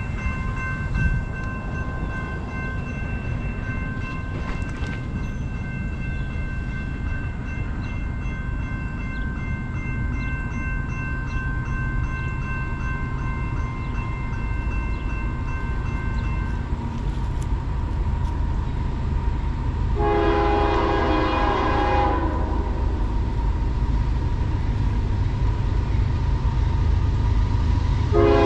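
Approaching train: a low rumble that grows steadily louder, with a steady high tone through the first half. The locomotive's horn sounds one chord blast for about two seconds about two-thirds of the way through, and sounds again right at the end.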